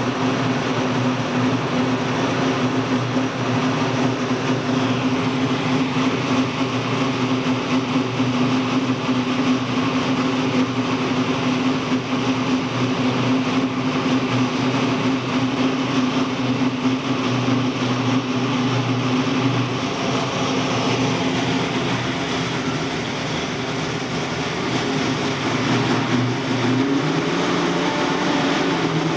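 Methanol-fuelled 512-cubic-inch Chrysler wedge big-block V8 with twin four-barrel carburettors, running at a steady speed. Its pitch dips and comes back up briefly near the end.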